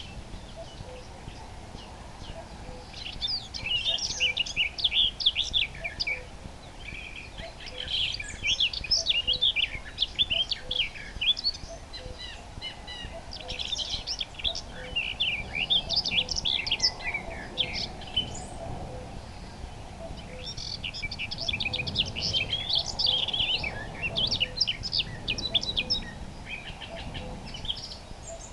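Common nightingale singing: phrases of several seconds of rapid high notes and trills, broken by short pauses. Under the song a faint low note repeats evenly about once a second.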